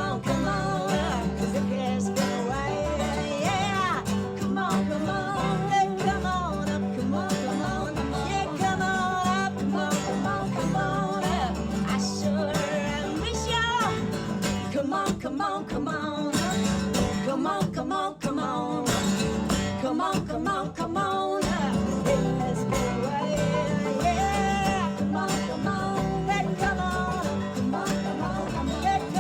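Live acoustic band music: strummed and plucked acoustic guitar with singing, playing without a break.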